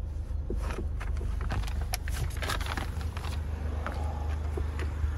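Ford Focus RS Mountune's turbocharged 2.3-litre four-cylinder engine idling with a steady low rumble. Scattered knocks and rustles come from someone moving about in the car and climbing out.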